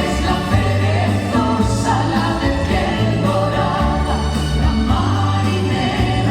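A vocal group singing in harmony over band accompaniment with a steady bass line.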